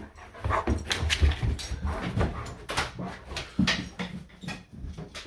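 Great Pyrenees puppy making dog noises, a dense, irregular string of short sounds.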